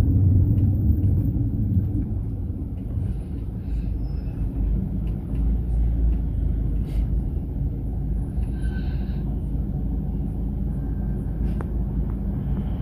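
Mercedes-Benz Sprinter minibus heard from inside the cabin while driving: a steady low engine and road rumble.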